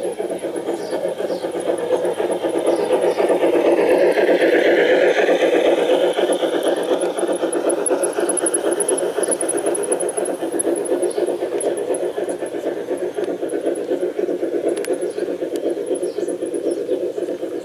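G scale model train running on the garden track: a steady rumble of motor and wheels that grows louder to a peak about four to six seconds in, with a squeal that dips and rises in pitch around the loudest part.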